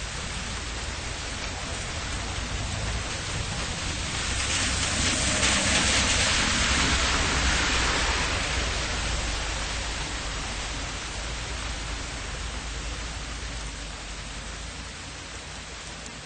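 Steady rain falling on a city street over a low rumble of distant traffic. Around the middle, a vehicle passes on the wet road, its tyre hiss swelling and then fading.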